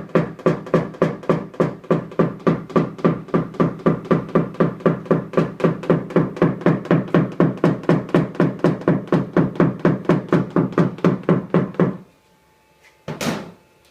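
Rapid, even tapping on a car's sheet-metal body panel, about four strikes a second, each with a short metallic ring: dent-repair tapping on hail damage. It stops abruptly about twelve seconds in, and one short sharp knock comes a second later.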